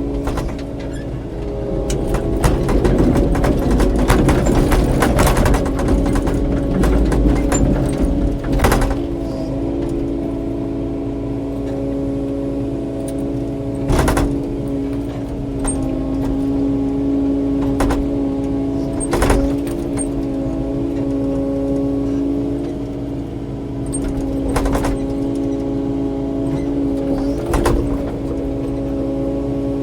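Kubota KX080-4 excavator's four-cylinder diesel engine running steadily under work. Sharp cracks and knocks come in a burst over the first several seconds, then singly every five seconds or so.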